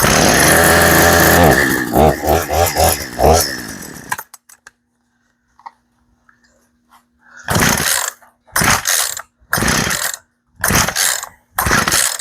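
A Poulan P3314 two-stroke chainsaw engine catches on a pull at half choke, runs for about two seconds, sputters and dies about four seconds in. Near the end the starter cord is yanked again about five times, a rasping pull roughly once a second, without the engine firing.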